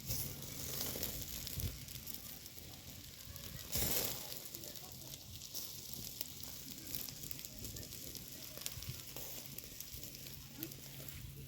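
Chicken drumsticks sizzling over an open fire, a steady hiss with small crackles and a louder flare-up about four seconds in.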